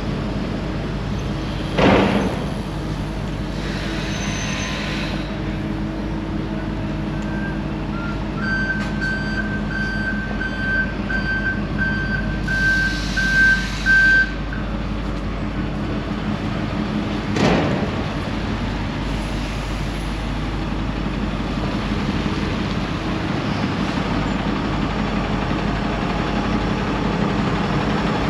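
Heavy diesel vehicle idling, with a warning beeper sounding about twice a second for six seconds and three short hisses of released air. Two sharp thuds, one about two seconds in and one past the middle.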